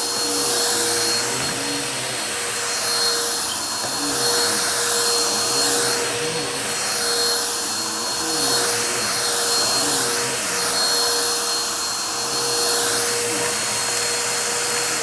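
Vacuum cleaner running steadily with a constant motor whine, its loudness swelling and easing about every two seconds.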